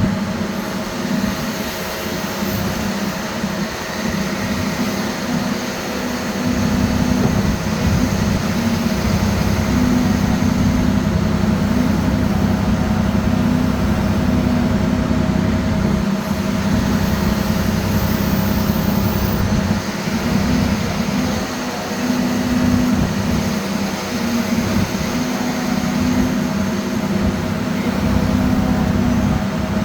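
Heavy diesel earthmoving equipment running steadily under load, getting louder about six seconds in.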